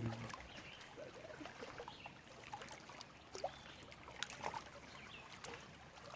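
Soft water trickling and small scattered splashes around a kayak on the water.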